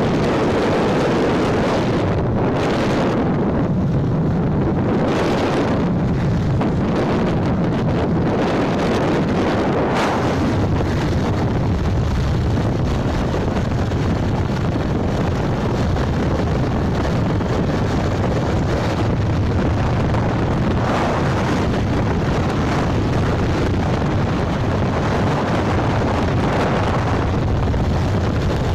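Wind buffeting the microphone on a moving motorbike, over steady road and engine noise.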